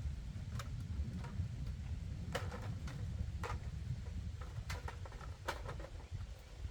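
A series of short, light knocks or clicks at irregular intervals, over a steady low rumble.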